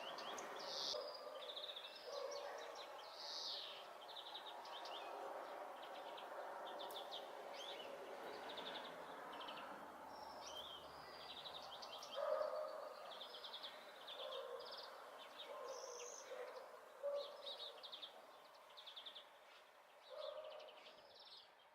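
European greenfinch singing: runs of rapid twittering trills and short chirps, repeated one after another, over faint background noise.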